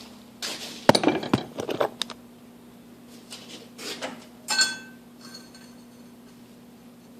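Small metal pieces clattering and clinking as they are handled, a quick run of knocks about a second in and a single clink with a short metallic ring about four and a half seconds in. A faint steady hum runs underneath.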